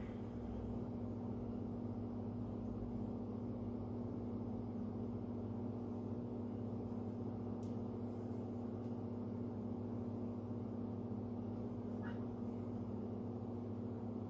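Steady low background hum with a constant low tone, and a couple of faint clicks near the middle and toward the end.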